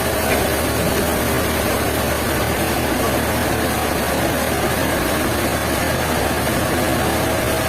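Sawmill machinery running with a steady, even drone and no breaks.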